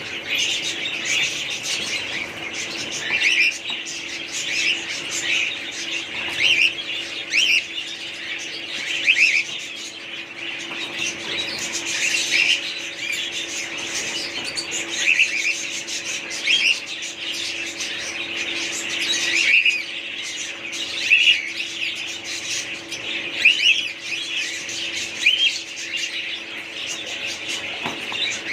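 Small pet parrots chirping and squawking in short repeated calls, a burst every second or so, over a steady low hum.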